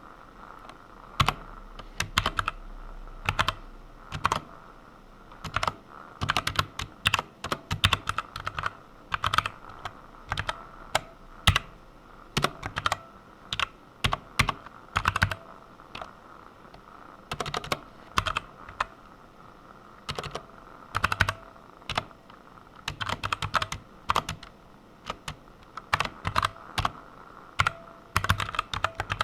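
Typing on a computer keyboard in uneven bursts of rapid keystrokes, with short pauses between runs.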